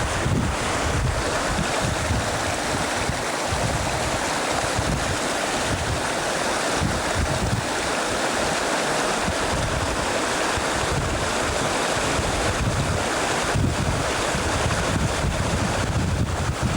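Steady rushing of river water, with wind buffeting the microphone in uneven low rumbles.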